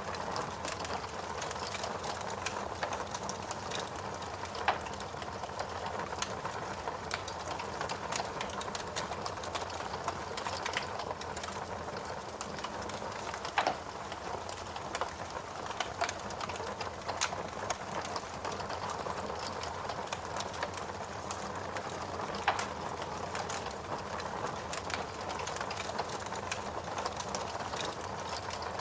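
Wood fire crackling in a fireplace: a dense run of small snaps and hisses, with a few louder pops now and then, about three of them standing out.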